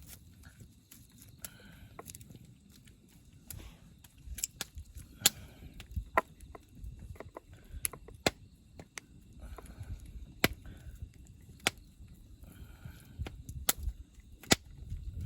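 Campfire crackling, with sharp, irregular pops from the burning wood.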